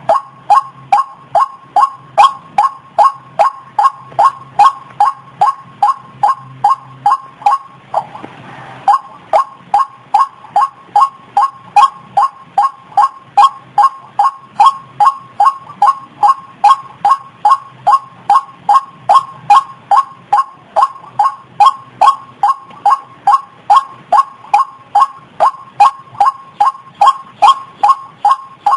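White-breasted waterhen (ruak-ruak) calling a short, monotonous note over and over, about twice a second, with a brief break about eight seconds in.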